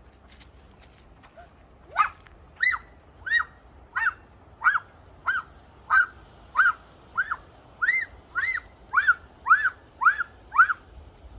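A bird calling a steady series of about fifteen loud, arched notes, about one and a half a second, starting about two seconds in.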